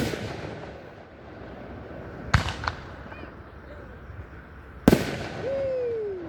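Aerial fireworks bursting: a loud bang at the start that trails off in a long decaying hiss, a sharp double report about two and a half seconds in, and another loud bang about five seconds in, followed by a drawn-out tone that falls in pitch.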